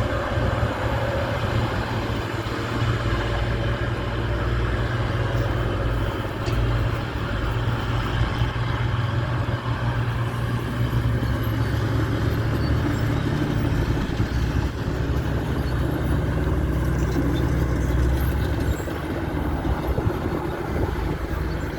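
Diesel engine of heavy earth-moving equipment running steadily with a deep drone, easing off a little near the end.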